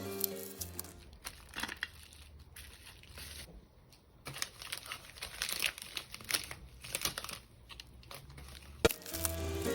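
Packaging being unwrapped, with irregular crinkling and tearing for several seconds, then one sharp click near the end.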